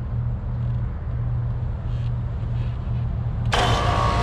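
Steady low machine hum; about three and a half seconds in, a loud rushing hiss starts suddenly and keeps going.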